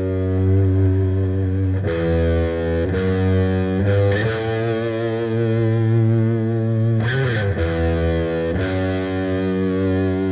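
Electric guitar through heavy distortion, playing long held chords that change a few times, with a wavering, vibrato-like stretch in the middle.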